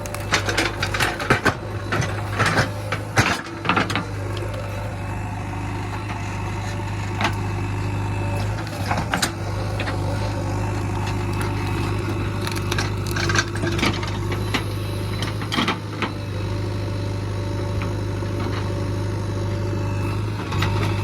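JCB 3DX backhoe loader's diesel engine running steadily under work, with repeated knocks, clanks and rattles from loading, heaviest in the first few seconds and again about halfway through.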